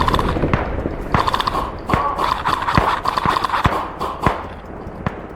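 Airsoft guns firing: irregular sharp snaps, some in quick runs, with BBs cracking against surfaces.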